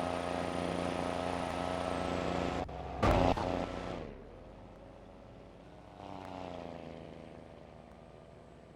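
Vehicle engine running with a steady low drone, broken about three seconds in by a loud short bump. After that the sound is much quieter, with a faint engine tone swelling up briefly near the six-second mark.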